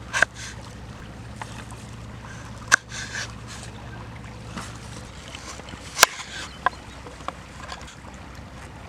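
Five or six sharp, separate knocks and clatters, the loudest about six seconds in, over a faint steady background with a low hum that stops about halfway through.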